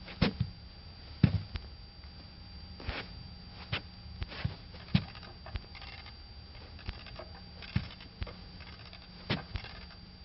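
A dozen or so irregularly spaced knocks and thuds in a small room, over a faint steady hum.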